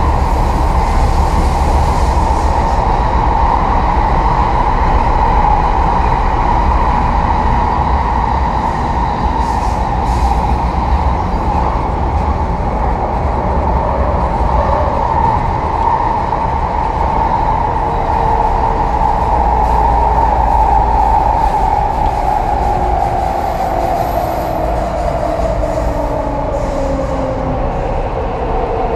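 Inside the car of an MTR East Rail Line R-train electric multiple unit running underground: a steady wheel-and-rail rumble with the traction motors' whine. In the second half the whine falls steadily in pitch as the train slows.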